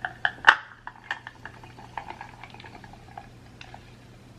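Close-miked crunching and chewing of a fried chicken wing: many small crackly clicks, one sharper and louder about half a second in, thinning out in the second half.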